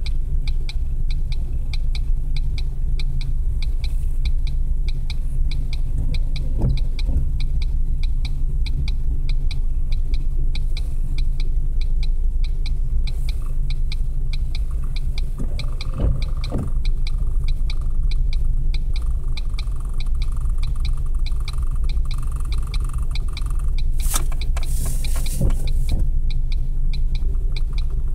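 Norfolk Southern coal train's hopper cars rolling past, a steady low rumble with a fast, regular clicking, heard muffled from inside a car. A few knocks stand out, and a short hiss comes near the end.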